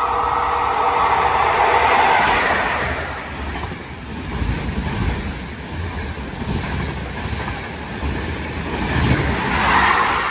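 A train passing through a station, its wheels rumbling and knocking over the rail joints. The sound swells about two seconds in and again near the end.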